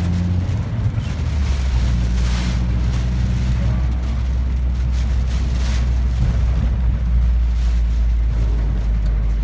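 Typhoon wind buffeting a car, heard from inside the cabin as a heavy, steady low rumble with hissing gusts that swell about two and a half and five and a half seconds in, over a faint engine hum.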